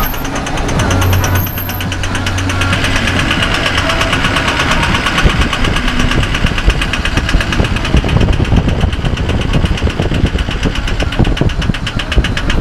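Truck engine running with a fast, even pulsing.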